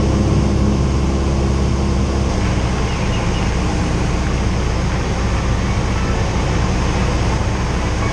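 Cessna 172's piston engine and propeller droning steadily as heard inside the cockpit in flight. The low drone eases slightly a couple of seconds in.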